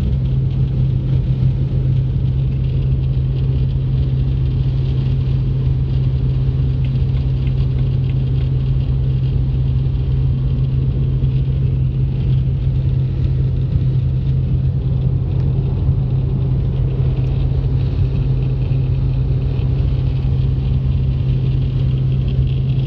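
Cabin noise inside a 2006 BMW 335i E92 coupé at highway speed: a steady low drone with road and wind noise. The wind noise around the windscreen, which the owner says starts from 90 km/h and gets louder with speed, is the fault being traced.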